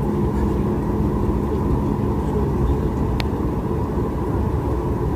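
Steady cabin rumble and hum inside a Boeing 737 MAX 8 airliner, with a single sharp click about three seconds in.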